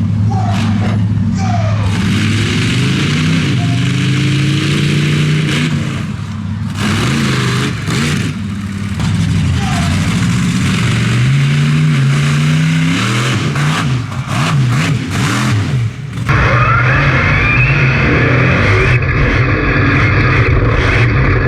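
Monster truck engine revving hard, its pitch climbing and falling over and over. About three-quarters of the way through the sound changes abruptly to a steadier, harsher engine run.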